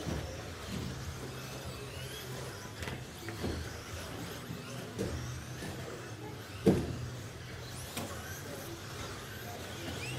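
Electric RC short-course trucks racing, their motors whining faintly up and down. Several sharp knocks of plastic trucks hitting, the loudest about two-thirds of the way through.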